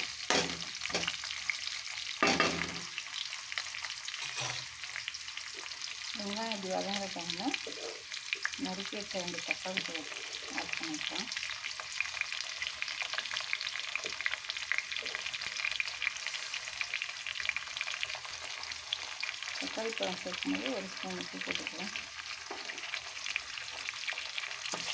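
Sliced onions and curry leaves sizzling in hot oil in a kadai, a steady frying hiss. A slotted metal spatula stirs them, with a few sharp scrapes and knocks against the pan in the first few seconds.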